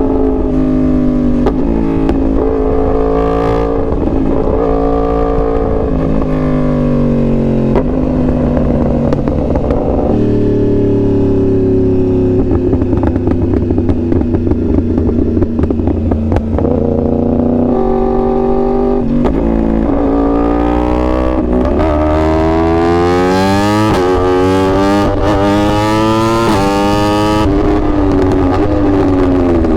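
2021 Yamaha R1's crossplane inline-four sportbike engine under hard throttle, its pitch climbing and dropping back at each upshift, with a steadier cruising stretch in the middle and a run of quick climbs through the gears in the second half.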